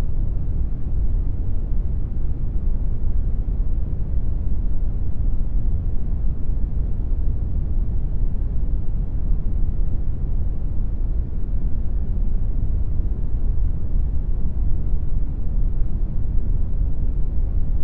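Steady brown noise: a constant deep rumbling hiss, strongest in the low end and fading toward the highs, with no changes.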